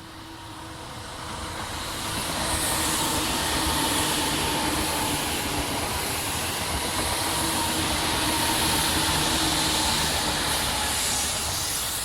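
Seibu 4000 series electric train running past, its noise building over the first two seconds, holding steady, then fading near the end.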